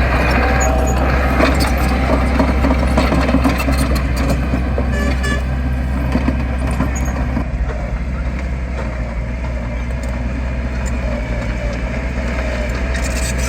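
Heavy construction machine's diesel engine running with a steady low rumble, with clattering and knocks through the first half; it grows somewhat quieter a little after halfway.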